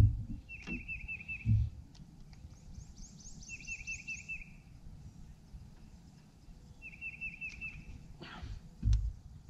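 Birds singing: one bird repeats a short phrase of five or six quick chirped notes three times, a few seconds apart, while a second bird gives a higher, faster run of notes in between. A couple of low thumps are heard, one early and one near the end.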